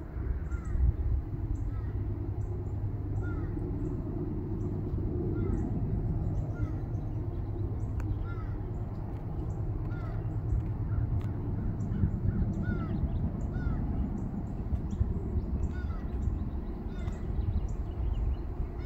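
Birds calling in short chirps about once a second over a steady low rumble.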